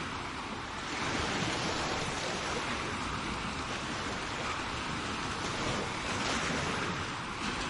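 Sea waves breaking and washing on a shore: a steady rushing surf that swells slightly after about a second, with some wind on the microphone.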